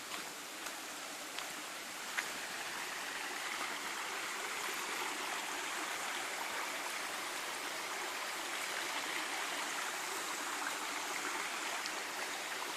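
Steady rush of running water, growing a little louder after about two seconds, with a few light clicks near the start.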